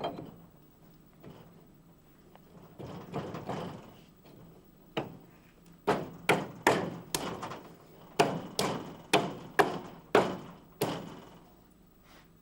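Workshop handling noise, then about a dozen sharp knocks of a tool striking drill gearbox parts. They come in quick succession, roughly two a second, each with a short ring.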